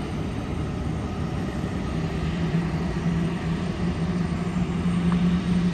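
Steady mechanical rumble of airport apron machinery, with a low steady hum that comes in about two seconds in and grows stronger toward the end.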